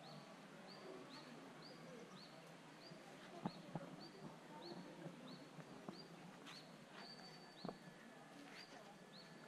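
Faint bird chirping a short, high, falling note over and over at an even pace, about two a second. A couple of soft knocks are heard, one about a third of the way in and one near the end.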